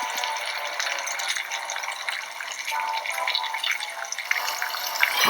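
Running water: a steady splashing hiss with small scattered clicks.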